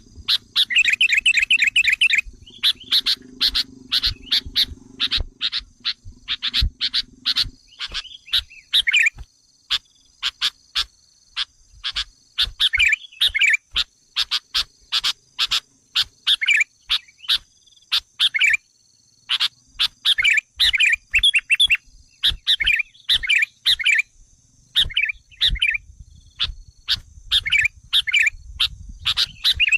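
Sooty-headed bulbul calls played as a lure recording: a rapid run of sharp, repeated chips broken by bursts of bubbly chattering song, the agitated calling meant to rile wild bulbuls. A faint steady high tone runs underneath, and a low hum fades out about seven seconds in.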